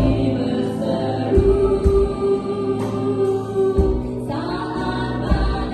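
Worship music: voices singing slowly over sustained keyboard chords and a steady low drum beat.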